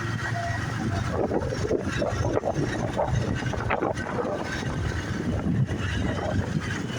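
Wind buffeting the microphone over a motorbike engine and the rush of street traffic, heard from a moving motorbike taxi.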